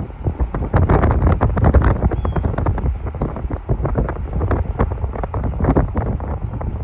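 Wind gusting on the microphone in a rainy forest: a heavy, steady rumble broken by many irregular crackles and patters of rain.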